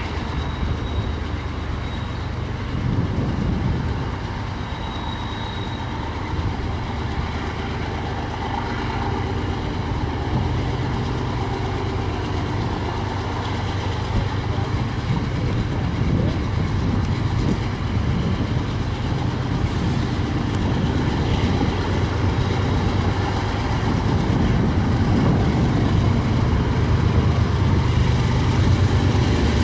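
BNSF freight train with diesel locomotives, a steady rumble with an even engine drone, growing louder toward the end.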